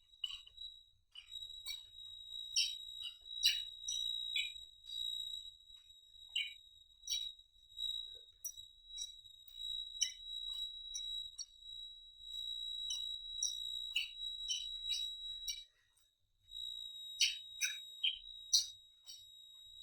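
Irregular wet clicks and smacks of someone chewing and eating, over a steady high-pitched whine that drops out for about a second near the end.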